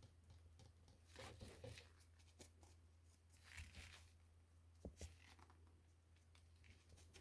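Faint handling noises: a few light clicks and rustles over a steady low hum.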